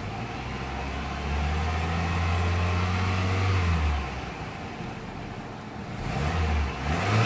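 2000 Toyota Camry LE's four-cylinder engine being revved: one held rev that climbs about a second in and drops back to idle near four seconds, then a couple of quick blips near the end.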